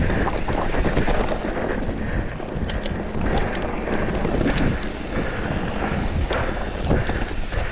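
Wind buffeting the microphone during a mountain-bike descent down a drop, a steady rumbling noise with scattered sharp clicks and rattles.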